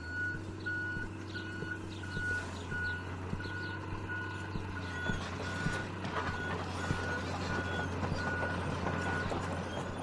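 A truck's reversing alarm beeping about twice a second over the steady low hum of its diesel engine, with scattered small knocks; the beeping stops about nine seconds in.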